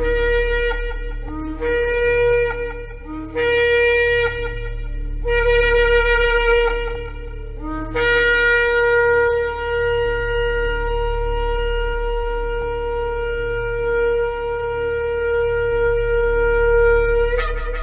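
Shofar blowing: four short blasts, each starting on a brief lower note and stepping up to the main tone, then one long held blast of about nine seconds that ends with a sharp upward flick.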